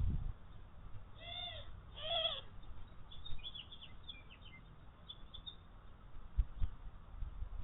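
Birds calling at a feeder: two short arching calls with overtones, then a scatter of quick high chirps. A couple of low thumps follow near the end.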